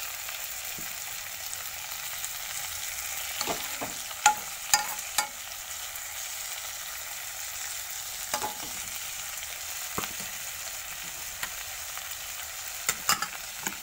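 Rohu fish pieces and sliced onions frying in oil in a pan, with a steady sizzle. A metal spoon clinks and scrapes against the pan in a few short clusters, around four seconds in, again near eight seconds, and near the end.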